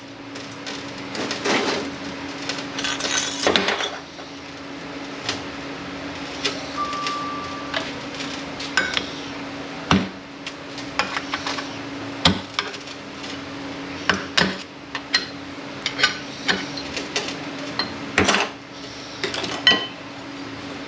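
Steel transmission clutch-drum parts (snap ring, piston, drum) clinking and knocking against each other and the bench as the drum is taken apart by hand. The knocks come irregularly, with a rougher scraping stretch early on, over a steady low shop hum.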